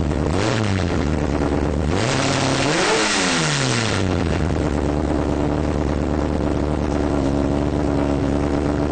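Honda B-series 2.1-litre DOHC VTEC four-cylinder breathing through individual throttle bodies, blipped twice with no load. A short rev comes about half a second in, then a bigger one peaks about three seconds in with loud intake noise. It then settles into a steady idle.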